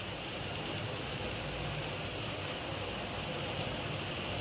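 Tomato-onion masala gravy with soya chunks sizzling steadily in a kadhai over a gas flame.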